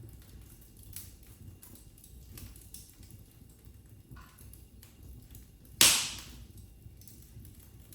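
Wood fire in a fireplace crackling, with scattered small snaps and one loud pop about six seconds in.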